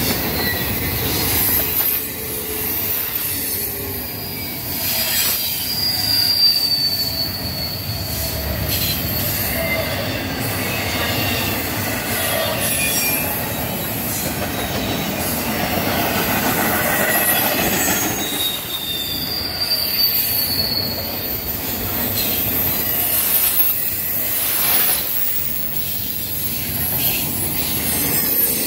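Double-stack intermodal container well cars rolling past on the rails: a steady rumble and rattle of steel wheels over the track, with high thin wheel squeals coming in now and then, most clearly about five and about twenty seconds in.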